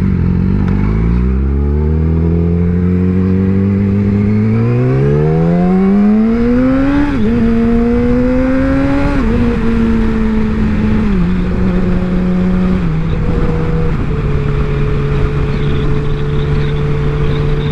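Motorcycle engine pulling hard, its pitch climbing steadily for about six seconds, dipping briefly at a shift and climbing again. It then falls back in a few quick steps and settles to a steady cruising pitch, with wind rushing under it.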